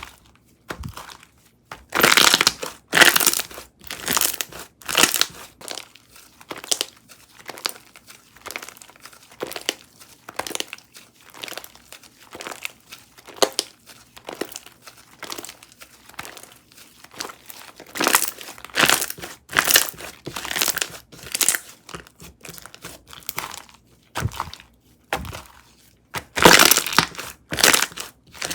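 Slime being squeezed and poked by hand, giving irregular sharp crackles and pops. They come in clusters, loudest a couple of seconds in, again past the middle, and near the end.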